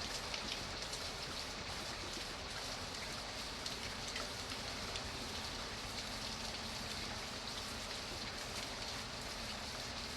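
Steady rain falling, a continuous hiss of many small drops with fine individual drop ticks throughout.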